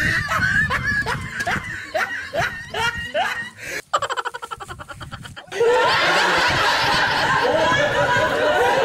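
Laughter: a string of short rising giggles about three a second, a fast stuttering cackle about four seconds in, then from about halfway a dense crowd laughing together.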